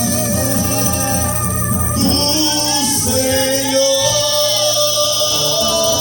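A band plays with a singer carrying the melody over guitar and bass: live gospel music.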